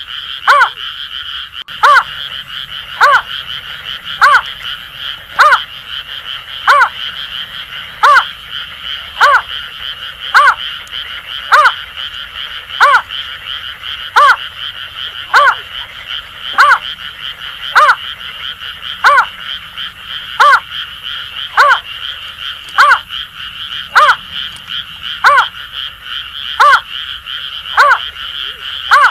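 Greater painted-snipe's call, a short hooting note repeated steadily about once every 1.2 seconds, over a continuous chorus of Asian grass frogs calling.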